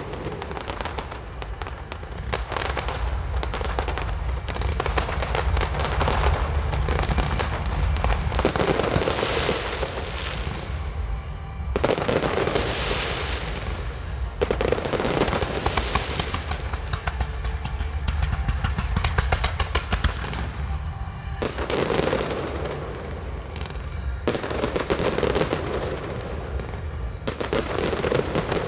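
Fireworks display: a continuous barrage of crackling bursts and booms from aerial shells and ground fountains, swelling into fresh volleys every few seconds.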